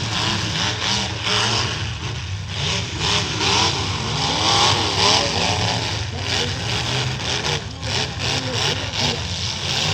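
Several demolition derby trucks running at once, their engines revving and falling back, with a few short knocks near the end.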